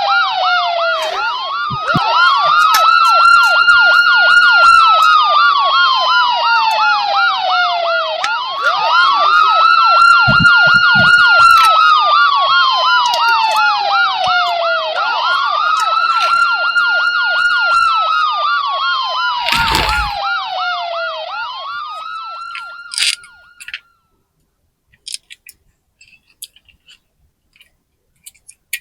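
Electronic toy ambulance siren: a wail that rises over about two seconds and slides down over about six, three times over, with a fast warble laid on top. It fades out a few seconds before the end, and a few light clicks follow.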